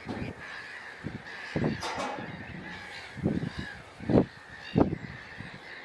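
Waterbirds calling, with a sharper call about two seconds in, over six loud low rumbles spaced about a second apart.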